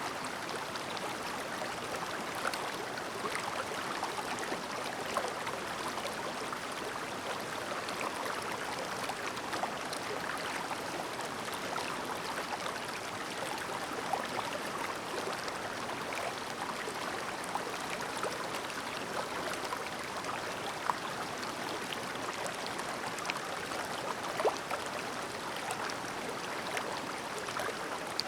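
Shallow, clear mountain river babbling over stones: a steady gurgle and splash of flowing water, with small droplet ticks and a few slightly louder splashes now and then.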